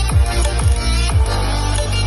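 Electronic dance music with heavy bass played through a JBL Boombox 3 portable Bluetooth speaker, a deep booming kick drum hitting about twice a second.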